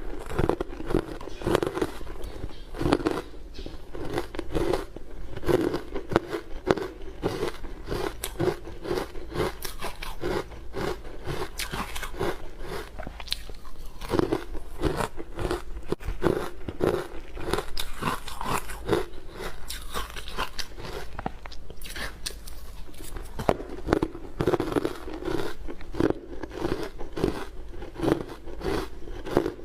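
Close-miked biting and chewing of hard frozen matcha ice: sharp cracks and crunches, several a second, without a break.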